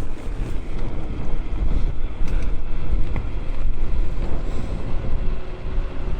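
Wind buffeting the microphone of a moving electric bike, a loud steady rumble with a faint steady hum underneath.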